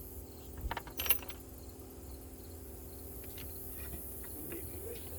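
Small metal tools clinking and clicking as they are handled, with two sharp clicks about a second in and a few fainter ones later, over a steady low hum and a high chirring of crickets.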